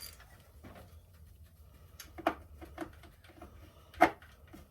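A few scattered clinks and knocks of hand tools and engine parts being handled, the sharpest one about four seconds in.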